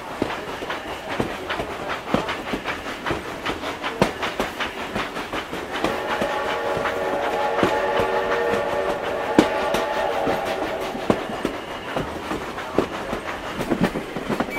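Train sound effect: wheels clicking steadily over rail joints as the train runs along. About six seconds in, a train whistle blows a chord of several steady notes for about five seconds.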